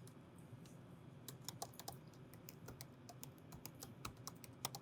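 Typing on a computer keyboard: faint, quick, irregular key clicks.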